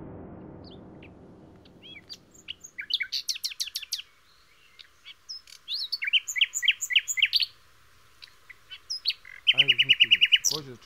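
Songbirds chirping and trilling in quick bursts, after a low rumble fades out at the start.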